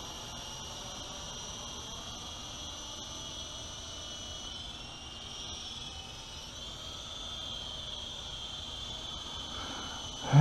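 Electric motor whine of a UDI U12A coaxial RC helicopter in flight: a steady high whine that dips in pitch a little past the middle and rises again as the throttle changes.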